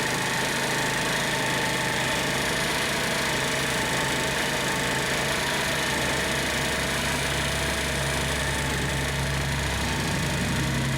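2017 TaoTao 50cc scooter engine idling steadily after carburettor work.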